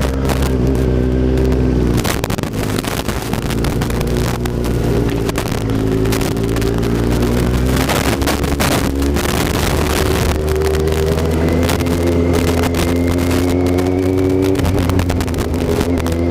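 Kawasaki Z750 inline-four engine running under way, its pitch rising and falling gently with the throttle, with wind buffeting the microphone throughout.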